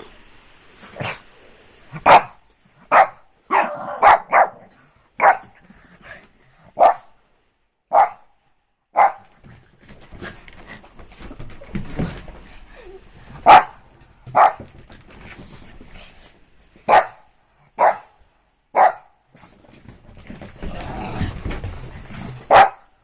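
Shih Tzu barking in short, sharp single barks, about sixteen over the stretch, mostly about a second apart with a few longer pauses.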